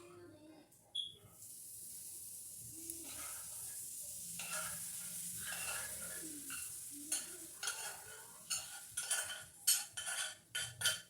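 Rice frying in a hot pan, with a steady sizzle that starts about a second in. A utensil stirs and scrapes against the pan, with the scrapes and knocks coming quicker through the second half.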